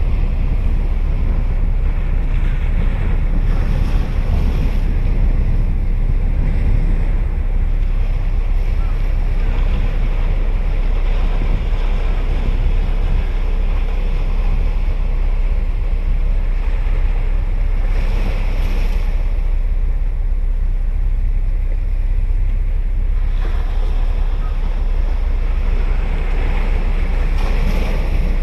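Ocean surf breaking and washing up the beach in repeated surges, over a steady low rumble of wind buffeting the microphone.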